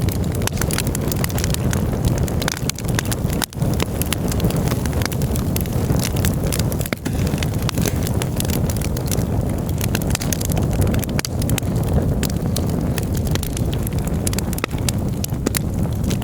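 Campfire crackling and popping, with irregular sharp snaps over a steady low rumble.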